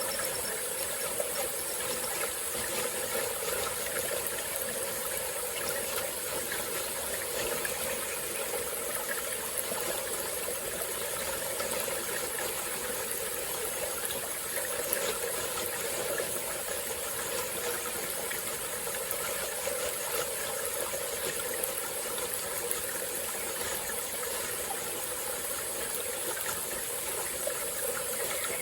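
Small tropical-forest stream flowing steadily, its water running and splashing as one even rush, with a steady high hiss above it.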